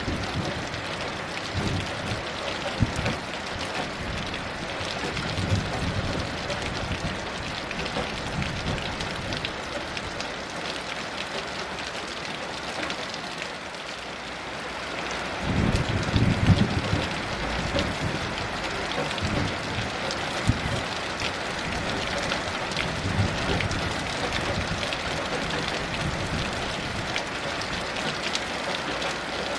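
Heavy rain falling steadily, with several low rumbles of distant thunder swelling and fading; the strongest comes about halfway through.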